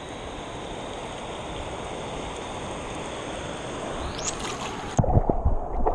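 Steady rush of river water around a wading angler, with a short rising swish about four seconds in; from about five seconds, low knocks and thumps of handling and water movement close to the microphone.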